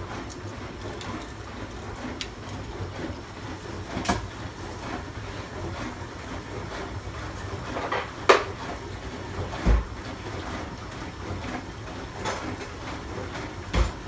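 Scattered clinks and knocks of pots, pans and utensils in a kitchen, the sharpest clink about eight seconds in and dull thumps near ten seconds and at the end, over the steady low hum of a dishwasher running.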